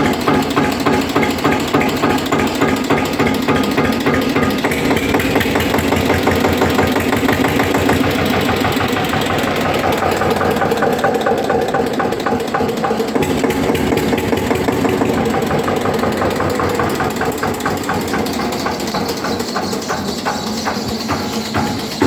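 Eicher 242 tractor's diesel engine running loud and steady, with a regular firing beat; it comes in suddenly at the start.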